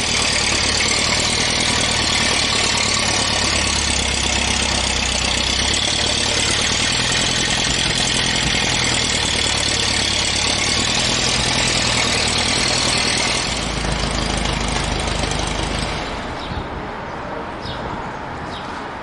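Car engine running steadily under a loud rushing noise, which becomes quieter about sixteen seconds in.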